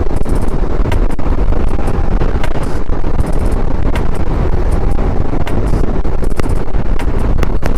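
Heavy wind noise buffeting the microphone of a motorcycle riding at speed, over the steady sound of the bike and road.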